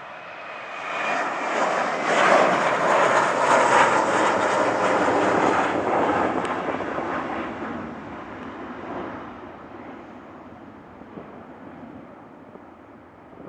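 JetBlue Airbus A321neo at takeoff power passing by: the engine noise swells about a second in, is loudest for several seconds, then fades steadily as the jet climbs away.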